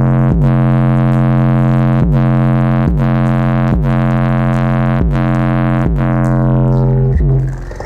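Bass-heavy electronic music played loud through a car's AudioSystem X-ion 12-inch subwoofer: a held synth bass note under a kick drum hitting about once a second, fading out near the end.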